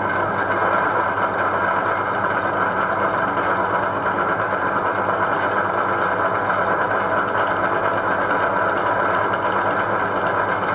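A small electric motor or power tool running steadily at constant speed, with an even mechanical hum.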